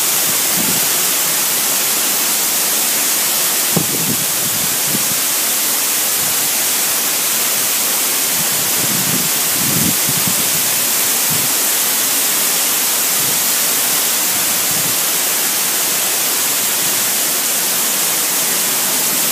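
Steady rush of a waterfall, a loud, even hiss of falling water with no change through the whole stretch.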